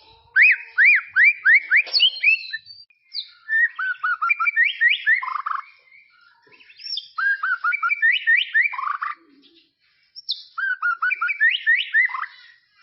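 White-rumped shama singing: four phrases of rapid, repeated looping whistled notes, each lasting two to three seconds, with short pauses between them.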